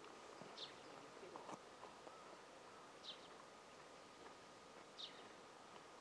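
Three faint, short, high chirps from a small bird, about two seconds apart, over a near-silent outdoor background. A couple of soft knocks sound in the first two seconds.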